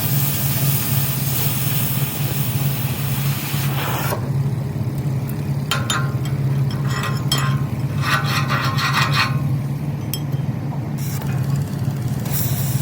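A steady low engine-like drone under scraping and rasping strokes, which come in short irregular bursts from about four to ten seconds in. A hiss sits over the drone at the start and again near the end.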